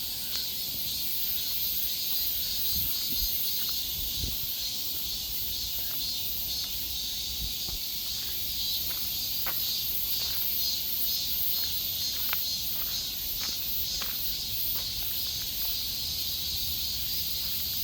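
Forest ambience: a steady, high, faintly pulsing chorus of insects, with scattered small clicks and ticks and a low rumble underneath.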